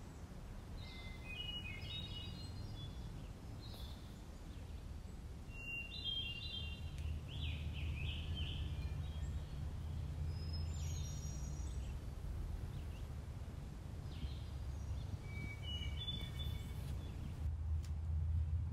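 Small birds calling in short runs of quick high chirps, four times, over a steady low outdoor rumble that grows a little louder about seven seconds in.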